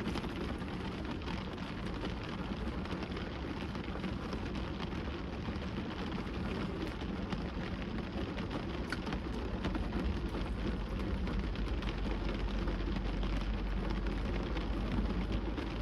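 Steady rain falling on a car's roof and windows, heard from inside the cabin, with many small scattered ticks of drops. A low rumble underneath grows a little stronger in the second half.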